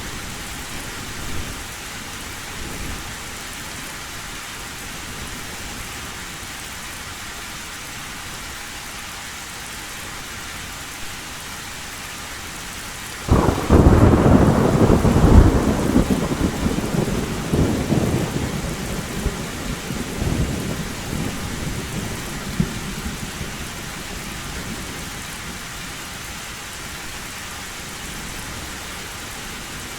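Steady heavy rain drumming on a metal roof; about halfway through a thunderclap breaks in suddenly and rumbles on for several seconds before fading back under the rain.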